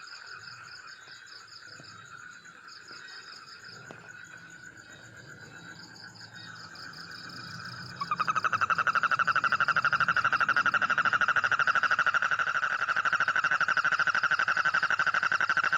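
Insects chirping steadily and faintly, then about eight seconds in a loud, rapidly pulsed trill starts abruptly and carries on without a break: a frog or toad calling.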